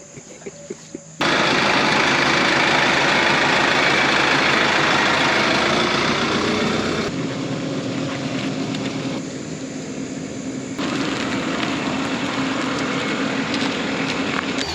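Tractor engine running loudly and steadily, starting abruptly about a second in, then changing level sharply twice.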